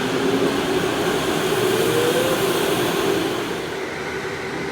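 Electric go-karts running, a steady motor hum over an even rushing noise, with one motor's whine rising in pitch about two seconds in as it speeds up.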